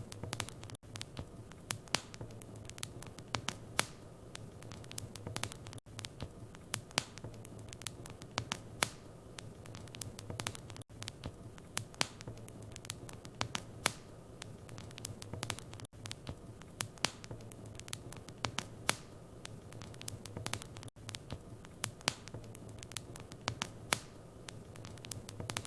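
Wood fire in a fireplace crackling, with frequent sharp, irregular pops over a steady low hum. The sound dips out briefly about every five seconds.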